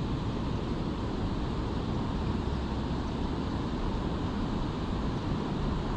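Steady rushing noise of a strong river current, with wind buffeting the microphone, unbroken by any distinct sound.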